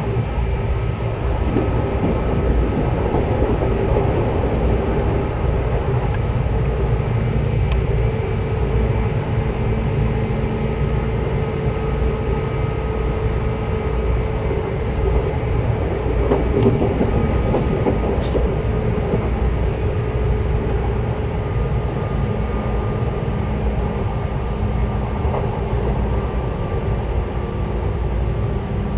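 Seibu 10000 series electric train running at a steady speed, heard from inside the car: a continuous rumble of wheels and running gear with a few steady held tones over it.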